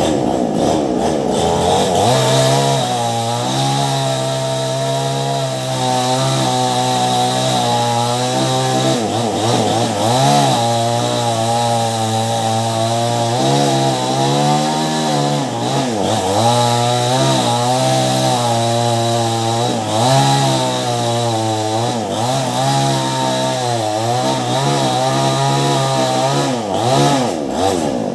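Ryu petrol chainsaw with a STIHL chain cutting into a large mango trunk, running hard without a break. Its pitch falls over the first couple of seconds, then keeps dipping briefly and recovering as the chain takes load in the cut.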